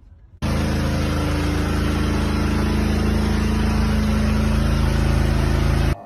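A motor vehicle's engine running steadily under a loud, even noise. It starts abruptly about half a second in and cuts off suddenly near the end.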